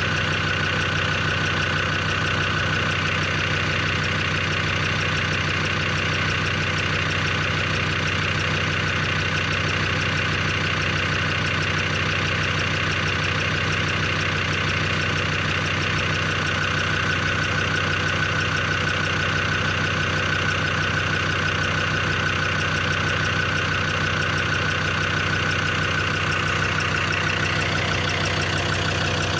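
Land Rover Defender Td5 five-cylinder turbodiesel idling steadily, with a fast, even ticking and tapping over the running. The owner cannot trace the tick: oil pressure is good and the hydraulic lifters hold pressure, and he wonders whether it comes from the injectors.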